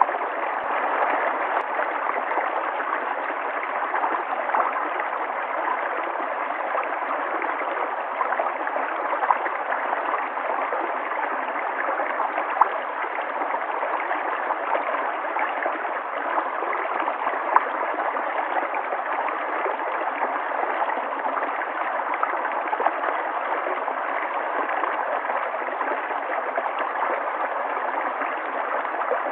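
River water flowing steadily over rocks, with a constant rushing and small gurgles and splashes now and then.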